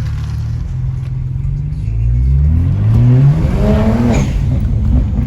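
Car engine accelerating hard, its pitch rising steadily for a couple of seconds after a low steady drone, then dipping and climbing again near the end as it shifts gear.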